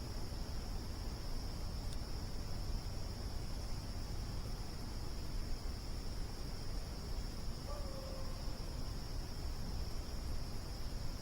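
Crickets chirping in a continuous high trill over steady low background noise, with a brief faint pitched call about eight seconds in.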